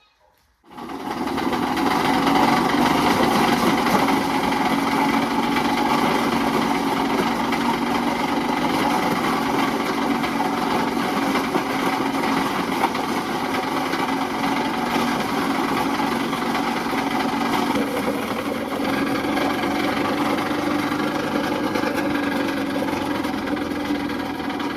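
A motor-driven machine running steadily: it starts abruptly about a second in, holds an even hum, and cuts off suddenly at the end.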